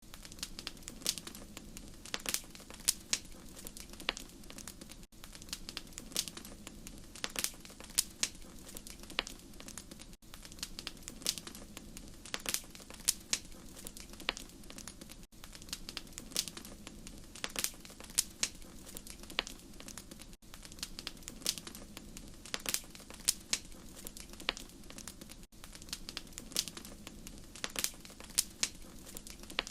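Wood fire crackling in a fireplace: irregular sharp pops and snaps over a steady low rumble, with the same stretch of about five seconds repeating.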